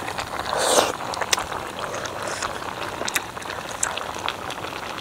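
A pot of duck and fermented-bean-curd hotpot broth boiling, its bubbles popping in quick, irregular clicks. A brief louder rush of noise comes just before a second in.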